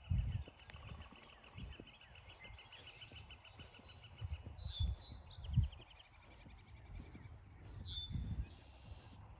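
Footsteps on a forest trail, irregular soft thumps, the loudest a little after the start and about five and a half seconds in. Over them birds sing: a long rapid trill of even notes through the first half, then a few short sweeping calls.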